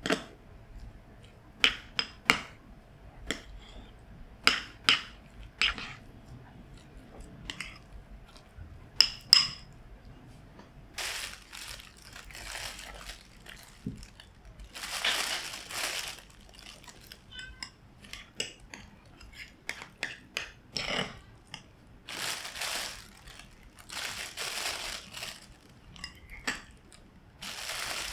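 Kitchen preparation sounds: sharp clicks and clinks of utensils against dishes, then several longer noisy stretches of a second or two each.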